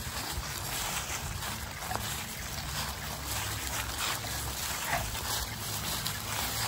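Footsteps of a person and a tiger crunching and rustling through dry fallen leaves at an irregular walking pace, over a steady low rumble.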